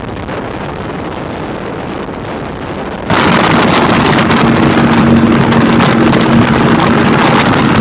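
Motorcycle engine running with heavy wind rush. About three seconds in, the sound cuts abruptly to a much louder steady engine drone over wind noise.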